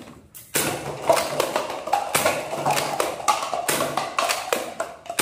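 Irregular sharp clicks and knocks from plastic toy guns being handled, one or two a second.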